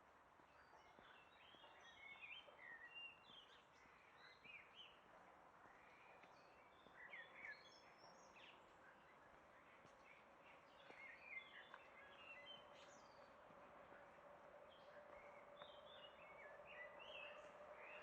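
Small birds chirping and singing faintly over a steady background hiss. Near the end a faint steady hum comes in under them.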